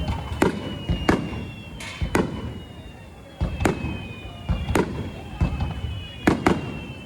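Aerial fireworks bursting: a string of sharp bangs, about one to two a second with some in quick pairs, over a low rolling rumble. Faint thin whistle tones fall slowly in pitch underneath.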